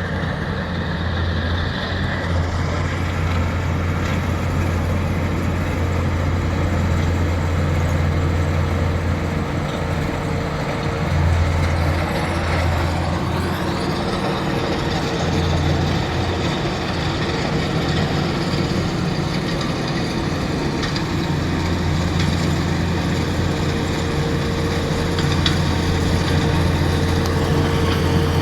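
A heavy working machine's engine running steadily, with a deep hum and a steady higher tone that change slightly in strength through the middle.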